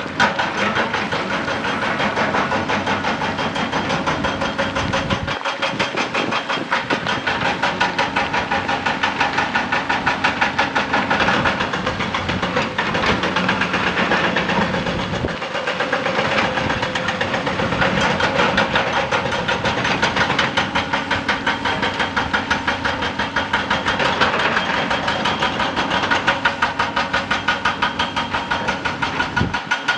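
Excavator-mounted hydraulic rock breaker hammering rock with a fast, steady rhythm of blows, over the excavator's diesel engine.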